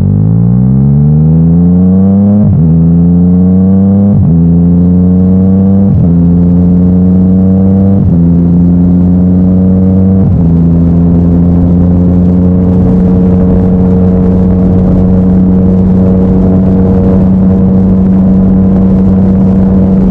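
Yamaha MT-09's three-cylinder engine through an Akrapovic titanium exhaust, accelerating up through the gears. The engine note climbs and dips briefly at each of about five upshifts in the first ten seconds, then runs at a nearly steady cruising pitch.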